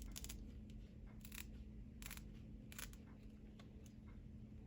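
Scissors snipping into a thick snake plant leaf to cut its tip to an angle: a few faint, short, crisp clicks less than a second apart.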